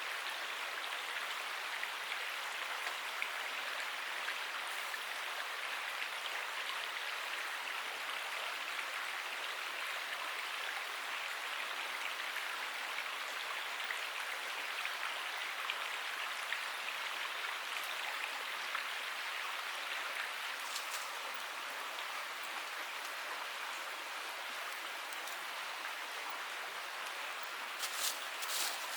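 Steady water noise: an even hiss with faint scattered ticks, and a few sharper clicks near the end.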